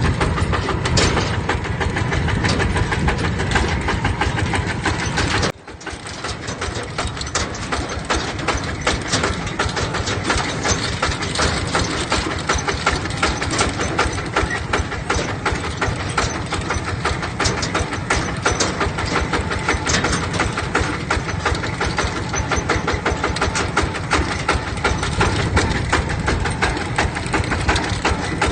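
Single-cylinder diesel engine of a mini tractor running steadily with a rapid, even firing knock. The level dips sharply for a moment about five and a half seconds in, then the running resumes.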